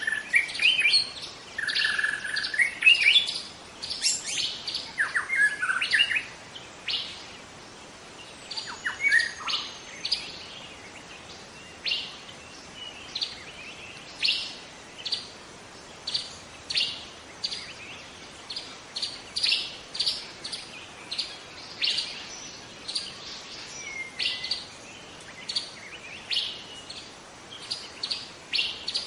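Young white-rumped shama singing: a run of varied warbling phrases with quick glides in the first several seconds, then short, sharp notes repeated about once a second.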